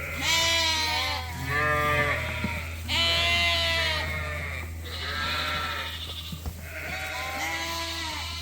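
Lambs bleating, several high calls overlapping one after another, over a steady low hum.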